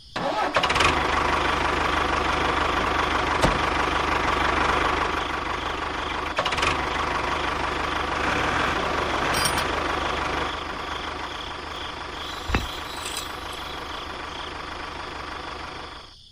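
A motor running steadily with a dense, rattly hum. It starts about half a second in, drops a little in level about ten seconds in and stops abruptly near the end, with a few sharp clicks along the way.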